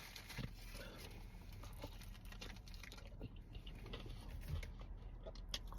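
Faint eating and food-handling sounds: small scattered clicks and soft rustles over a low steady hum.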